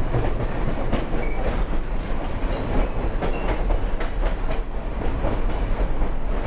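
Railroad cars rolling past with a steady rumble, their wheels clacking over the rail joints at irregular intervals.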